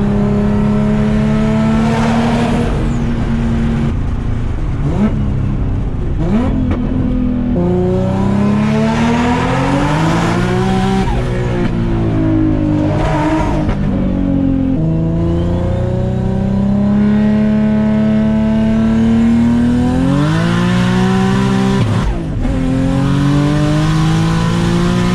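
Turbocharged VQ35 V6 of a 2004 Infiniti G35 coupe pulling hard through the gears. The engine note climbs under boost and drops sharply at each manual upshift, several times over. The car is running with a known exhaust leak that keeps it from making full boost.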